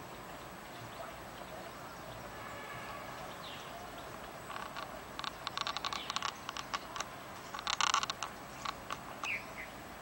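Wild birds calling over a steady hiss: a few short chirps, then from about halfway an irregular run of sharp clicking notes, loudest a little before the end.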